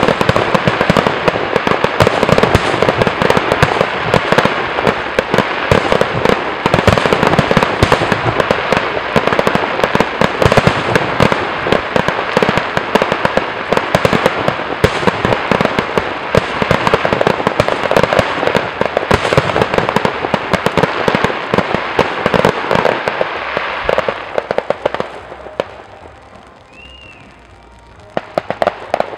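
Fireworks display: a dense, continuous run of bangs and crackling shells, thinning out about 25 seconds in. During the lull there is a brief high whistle, and the bangs start again near the end.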